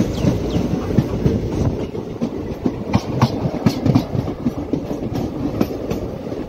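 Passenger train running, its wheels clattering over the rails with irregular sharp clicks and knocks over a steady low rumble, heard close up from an open carriage door.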